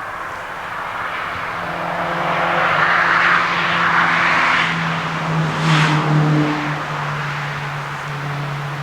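A vehicle passing by on the road: a steady engine hum and tyre noise that build up, are loudest a little past the middle, and then fade away.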